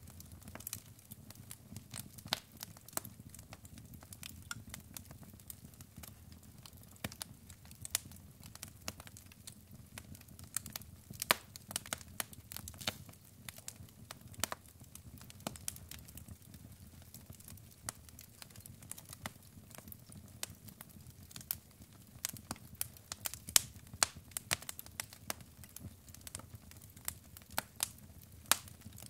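Wood fire burning with irregular sharp crackles and pops over a low steady rumble.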